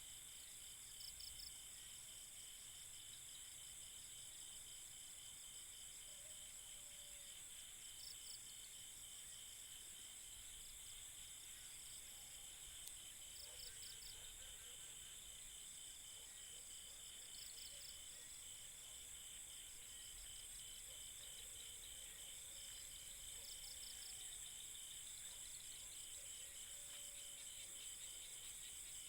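Night insects, crickets among them, chirring steadily and faintly in several high-pitched pulsing layers, with a short louder trill every few seconds.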